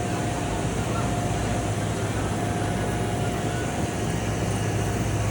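Sunthinks SU805 single-pass UV printer running: a steady machine noise with a low hum underneath, and a thin steady tone that drops out and returns about halfway through.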